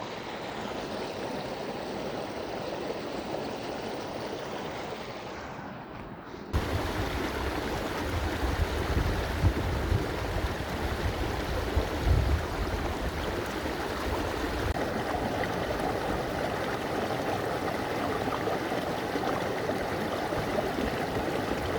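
A creek rushing steadily. About six seconds in the sound jumps louder and fuller, with a low rumble underneath.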